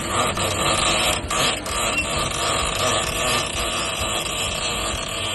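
Sailboat's engine running steadily, with wind noise on the microphone and a couple of brief knocks about a second and a half in.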